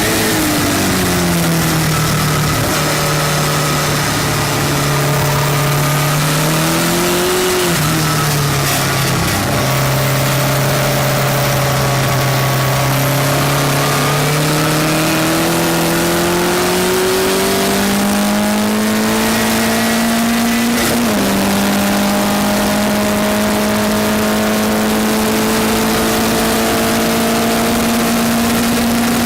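Westfield race car engine at racing speed: the revs fall at first, hold low, then climb steadily, dropping suddenly at a gear change about two-thirds of the way through before rising again. Constant wind and road noise runs under the engine.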